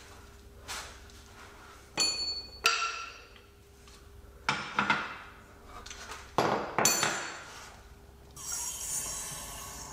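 Steel sockets and press-sleeve pieces clinking against one another as they are picked up and set together: about six sharp ringing clinks, followed near the end by a longer rattle of metal parts being handled.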